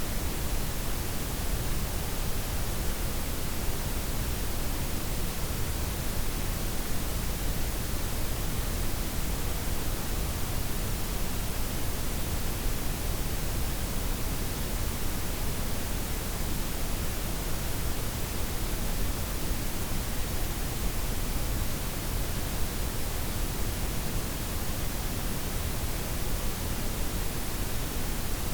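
Synthetic blend of white, pink and brown noise, a steady, even hiss with a deep rumble beneath it and softened highs, unchanging throughout.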